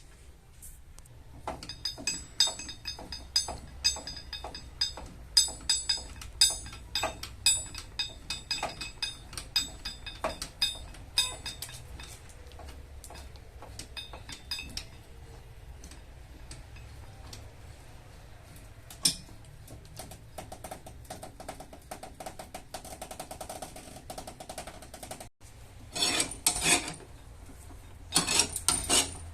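Many quick, light hammer taps ring on car-body sheet metal, the tapping-down of paintless dent repair, for the first ten seconds or so. It then goes quieter. Near the end come two short bursts of rasping, rubbing strokes on the panel.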